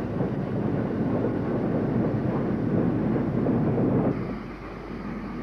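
Steam locomotive running, a steady dense sound that eases off about four seconds in.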